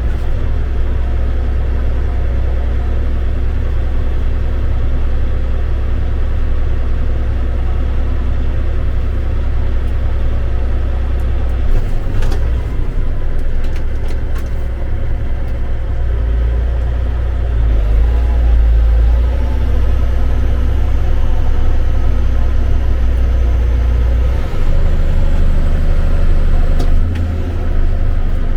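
Heavy diesel tractor engine running steadily with a deep rumble, rising in load a little over halfway through and again near the end.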